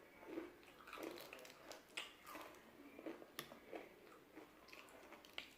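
A person chewing and biting into crispy fried chicken close to the microphone: irregular sharp crunches among softer wet mouth sounds.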